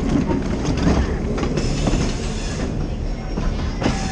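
Train rolling past at low speed, steel wheels clicking and knocking over the rail joints with a steady rumble.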